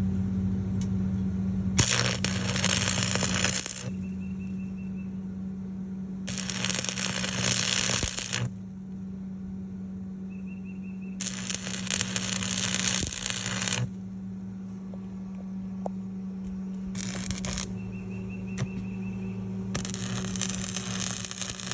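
Arc welding on steel: five bursts of crackling, most lasting about two seconds and one much shorter, over a steady low machine hum.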